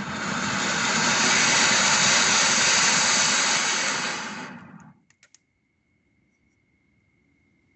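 A loud rushing noise swells in, holds steady, and fades out about five seconds in, followed by a few faint clicks.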